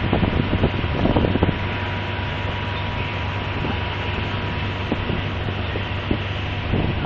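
Steady engine noise, a low hum with a thin held tone above it, under wind hiss on the microphone, with a few irregular knocks in the first second or so.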